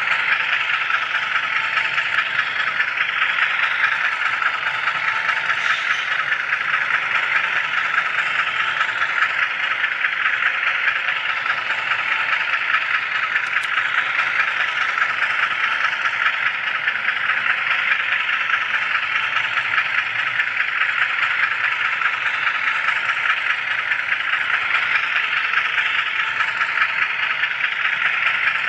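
HO scale model train with an on-board camera car rolling along the track, making a steady, even rattle of small wheels on rail.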